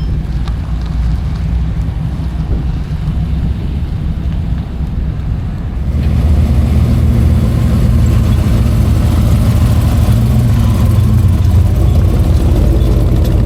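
A truck engine running, getting louder about halfway through.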